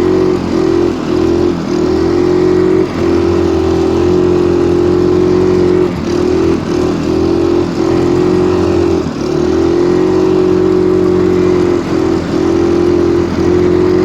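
Stels Kapitan Long snowmobile engine running steadily at high revs while driving through snow. The engine note briefly dips several times as the throttle eases and picks up again.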